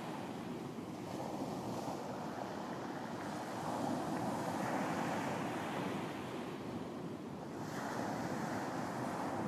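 Ocean surf washing onto a beach, a steady wash that swells about four seconds in and again near the end.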